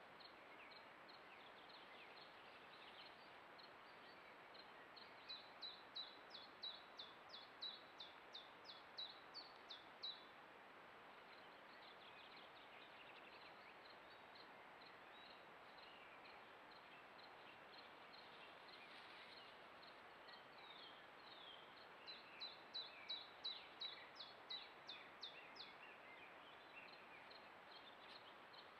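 A songbird singing over a faint steady hiss: two songs, each a run of quick, high, falling notes lasting about five seconds, the first a few seconds in and the second later on, with a few faint chirps in between.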